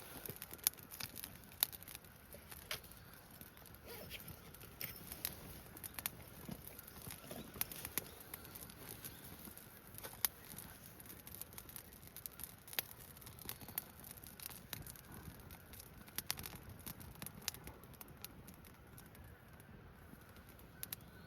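Campfire wood crackling, with irregular sharp pops and snaps.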